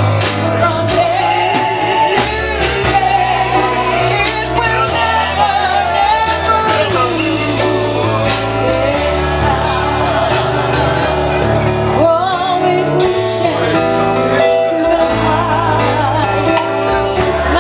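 A gospel duet singing with instrumental accompaniment over a steady bass line: live church-style music.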